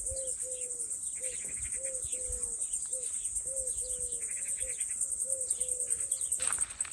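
Outdoor nature ambience: insects chirring in a high, fast-pulsing trill, with birds calling. A short low note repeats about twice a second. Near the end the trill and calls break off and a rougher noise takes over.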